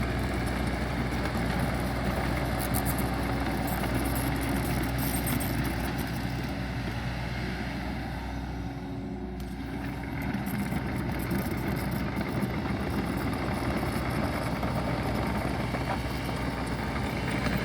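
Engine of a piece of earthmoving equipment running steadily. It eases off a little about eight seconds in and picks back up about two seconds later.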